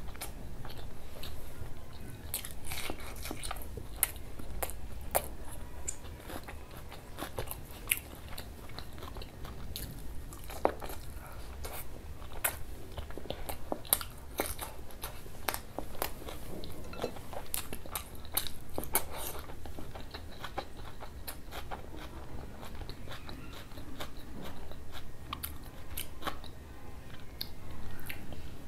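Close-up chewing and biting sounds of a person eating fried dal puri with mutton curry by hand, with many quick, irregular mouth clicks throughout.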